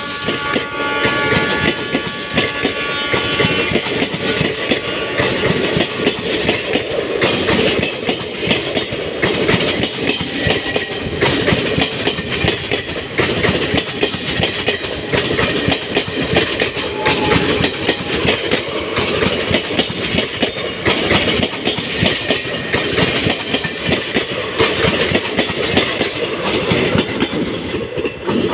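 Passenger coaches of an Indian Railways express train passing close at speed: loud, rapid, continuous clatter of steel wheels over rail joints with a heavy rumble. A horn-like tone fades over the first few seconds. The clatter drops off sharply at the very end as the last coach passes.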